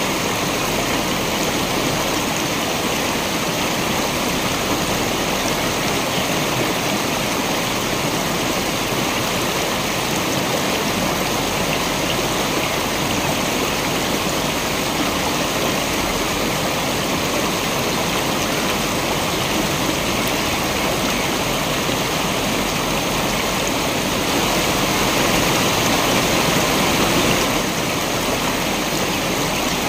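Waterfall: water falling and rushing steadily, with a brief swell in level a few seconds before the end.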